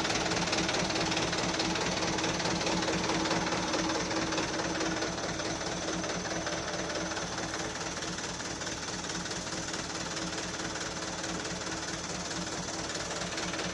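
Small engine running steadily with a fast, even pulsing, growing gradually a little quieter.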